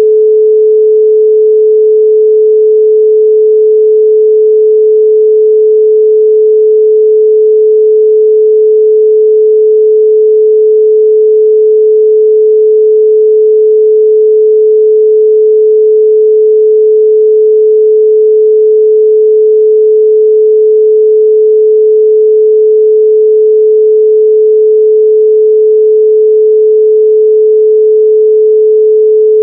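A steady, loud 432 Hz pure sine tone, one unchanging pitch with no overtones.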